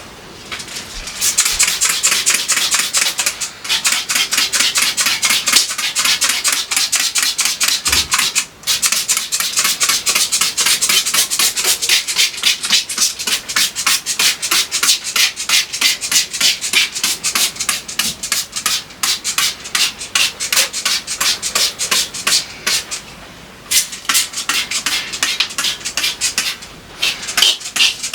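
Refrigerator interior being scrubbed and wiped down by hand, a fast run of scratchy back-and-forth rubbing strokes that pauses briefly twice.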